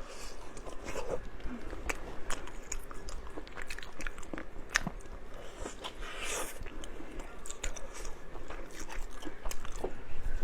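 Close-miked biting and chewing of food, with many irregular wet mouth clicks and smacks.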